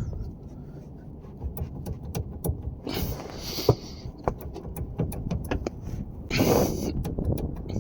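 Irregular light clicks and knocks from a worn, loose steering shaft joint being worked back and forth, its play the cause of the car's steering knocking noise. Two short rustling bursts come about three seconds in and near the end.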